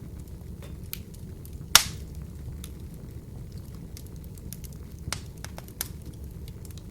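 Wood fire burning in an open fireplace: a steady low rumble of the flames with scattered crackles, and one sharp loud pop a little under two seconds in.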